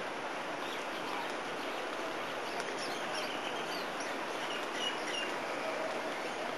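A few faint, short bird chirps over a steady outdoor background hiss.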